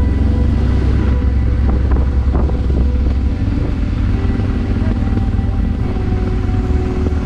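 Honda Transalp's V-twin engine running steadily as the motorcycle is ridden, a loud, even low drone.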